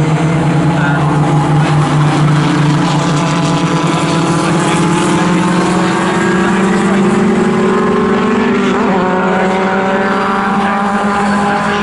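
Racing sports car engine running hard at high revs, its pitch climbing steadily as the car accelerates, with a brief change in the sound about three-quarters of the way through.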